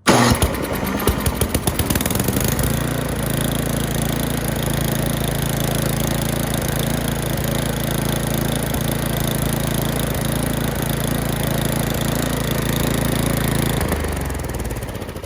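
Craftsman snowblower engine started with the push-button electric starter. It catches at once and fires unevenly for a second or two, then settles into a steady run. Near the end it is shut off and winds down. It is running on a newly replaced carburetor whose main fuel screw has been backed off so fuel reaches the engine.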